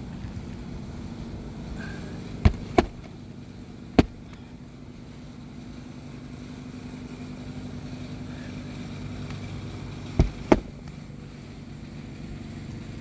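Roofing hammer striking on an asphalt-shingle roof: five sharp blows, a quick pair, a single, and later another quick pair, while the replacement shingle is fastened. A steady low hum runs underneath.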